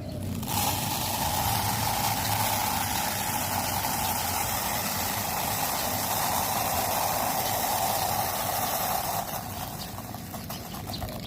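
A steady engine running, with a hum in the middle range, that eases off near the end.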